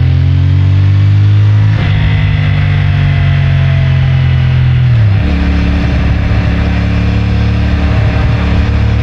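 CFMoto 450MT's 449 cc parallel-twin engine through its stock exhaust, running steadily under way. The note breaks briefly about two seconds in, then drops in pitch about five seconds in and holds lower as the engine slows.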